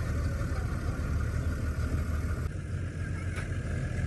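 An engine running steadily at idle, a low, even hum, with a single short click a little over three seconds in.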